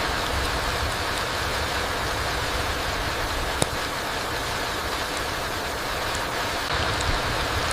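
Steady rain falling: an even hiss with a low rumble underneath, scattered faint drip ticks, and one sharp tick about halfway through.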